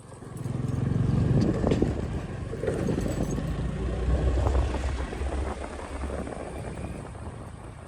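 Road vehicle engine noise heard from a moving motorcycle: a low rumble swells about half a second in and slowly fades away.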